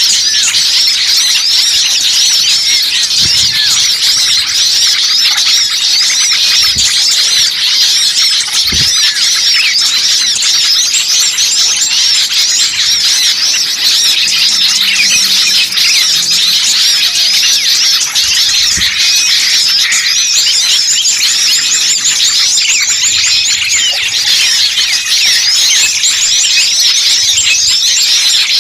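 A dense chorus of many small songbirds chirping and chattering at once, with high calls overlapping continuously. It is a bird-lure recording of a noisy small-bird flock, the kind played to draw wild birds down.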